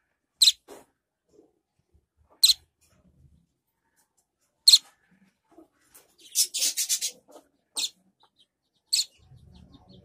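Fledgling bird chirping: single sharp, high chirps about every two seconds, with a quick run of chirps a little past halfway.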